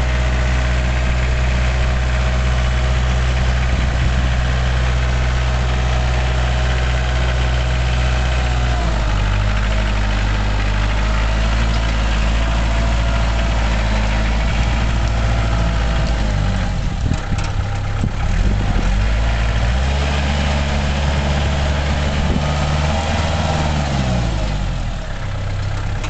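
Tractor engine running at a steady idle, its low drone shifting in pitch about nine seconds in and again near twenty seconds.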